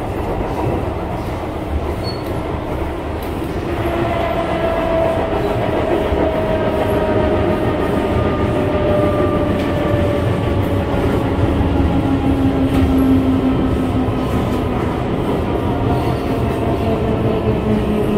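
SMRT C151 train heard from inside the carriage: a steady rumble of wheels on the track, with the traction motors' whine coming in about four seconds in and gliding slowly down in pitch as the train slows.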